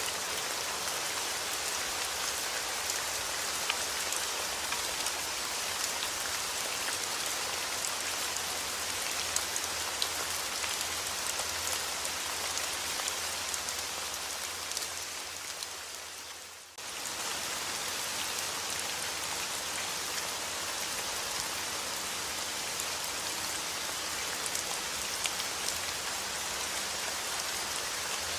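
Steady rain falling on a surface, an even hiss sprinkled with individual drop ticks. About halfway through, the rain fades down over a couple of seconds, then comes back in suddenly at full strength.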